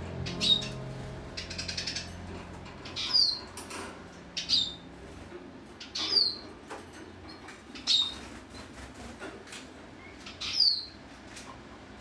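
A small cage bird calling: six short, clear chirps that slide downward in pitch, spaced about one and a half to three seconds apart. Soft background music fades out in the first couple of seconds.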